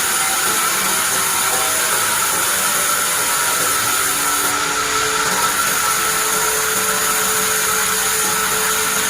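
Band sawmill running, a steady high machine whine and hiss from the blade and its drive as it saws pine.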